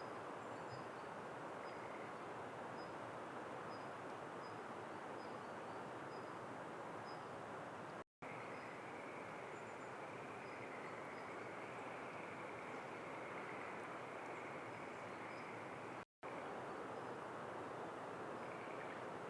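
Steady outdoor background noise with faint, short, high chirps from a small bird repeating every half second to a second. The sound drops out twice, briefly.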